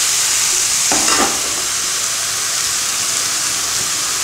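Grated beetroot sizzling in hot oil in a frying pan, with two brief spatula strokes about a second in, then a steady sizzle.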